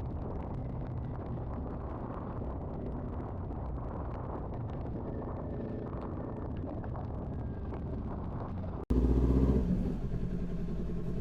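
Motorcycle engine running under way with wind and road noise. About nine seconds in, the sound cuts out for an instant and comes back louder, the engine now heard as a steady, even hum.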